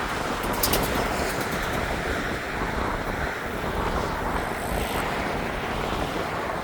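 Gale-force wind blowing hard across the microphone, a steady rushing noise.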